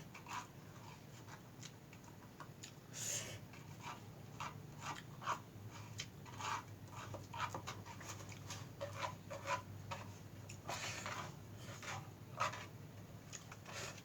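A person eating noodles close to the microphone: wet chewing and mouth clicks, with two longer slurps, one about three seconds in and one near eleven seconds.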